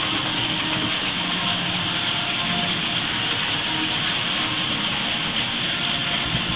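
A train running steadily past: a continuous rumble under a constant hiss.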